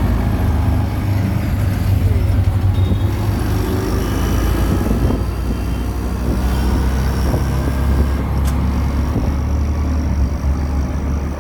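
Auto-rickshaw engine running steadily as the rickshaw drives, heard from on board as a loud low hum, with a single sharp click about eight and a half seconds in.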